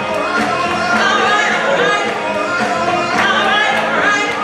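Gospel praise-and-worship song: voices singing with instrumental accompaniment.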